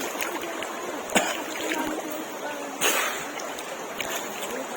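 Running stream water with people splashing in it, a sharp splash about a second in and a bigger one near three seconds; faint voices in the background.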